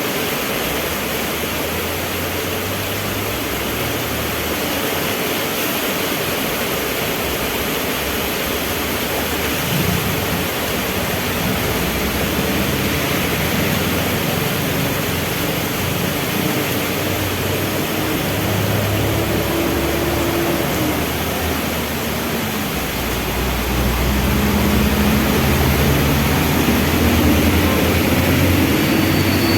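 Heavy rain falling steadily, with vehicle engines running underneath; a deeper engine rumble comes in louder about three quarters of the way through.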